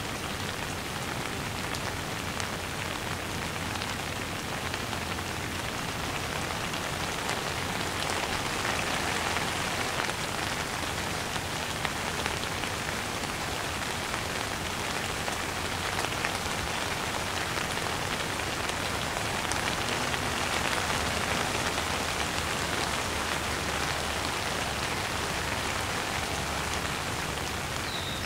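Heavy downpour: rain falling steadily as a dense, even hiss of drops, swelling slightly twice.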